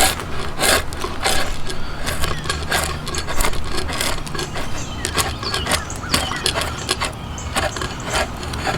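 A hand tool working yew wood in repeated short strokes, about three every two seconds, over a steady low hum.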